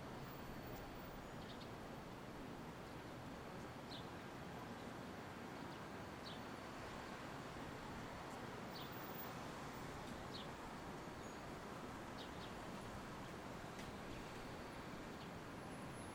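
Faint, steady outdoor street ambience, an even background hum, with a short high chirp every second or two, like small birds.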